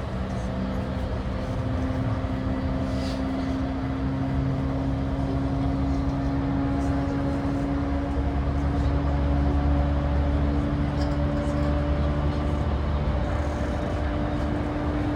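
Running noise inside the motor car of a JR East E235-1000 series electric train, which carries Mitsubishi full-SiC MOSFET VVVF inverters: a steady traction motor and gear hum over wheel and rail rumble. The hum's tones rise slowly in pitch as the train picks up speed.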